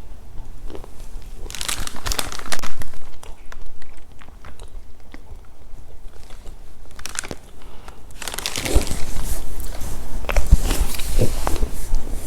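Close-miked eating of crunchy Milka chocolate snacks: crisp bites and crunching chews in bursts about two seconds in and again around seven seconds, then dense crunching over the last four seconds.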